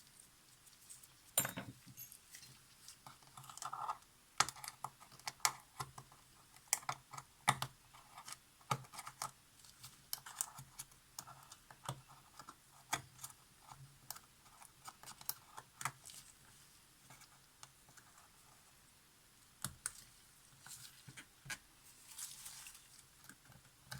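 Old silicone glue being scraped and picked off Polaroid SX-70 mirror parts with a small hand tool: irregular light clicks and taps with a few short scraping passes.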